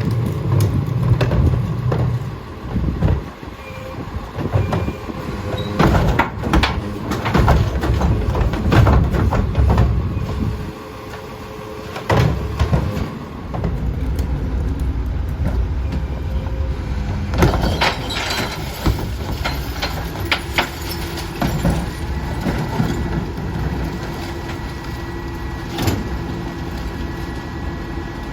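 Autocar ACX garbage truck with a Heil rear-loader body at work: its diesel engine runs throughout, with loud clanks and knocks scattered through. A steady hum joins the engine in the last third.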